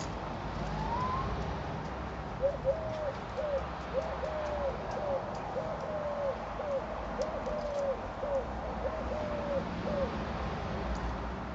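A bird calling: one short rising note about a second in, then a long run of short, evenly pitched hooting notes, about two a second.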